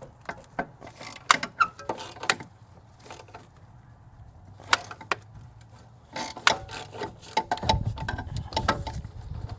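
Hand tools working on a turbo fastener: a socket and wrench clink and knock against metal, then a quick run of clicks with a low rumble near the end as the fastener is being worked loose.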